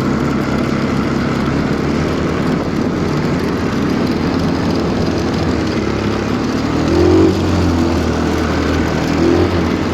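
Stels Kapitan Long snowmobile engine running steadily under way, its revs rising briefly about seven seconds in and again near the end.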